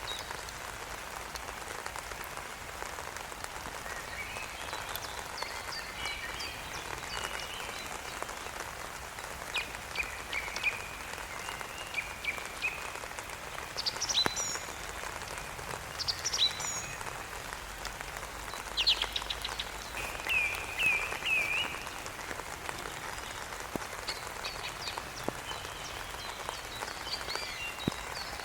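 Steady rain falling, with short high-pitched calls from small animals scattered over it, several quick trilling calls standing out loudest around two-thirds of the way through.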